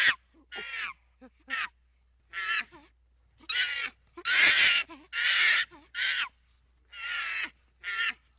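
An animal calling over and over: about nine harsh, pitched calls in a row, each shorter than a second, with short pauses between them.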